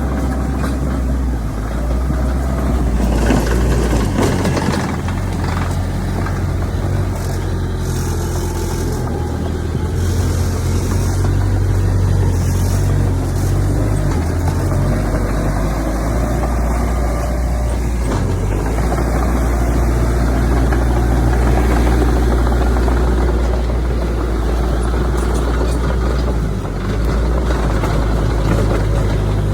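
Heavy diesel engine of earthmoving machinery running steadily with a deep, low hum, with brief clattering about three to four seconds in.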